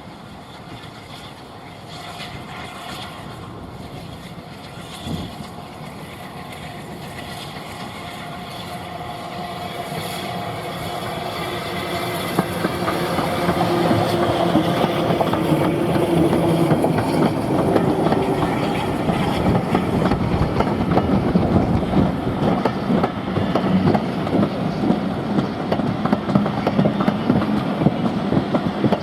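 Steam-hauled train on the heritage line drawing nearer, growing steadily louder for about fifteen seconds, then running loud and close past the listener.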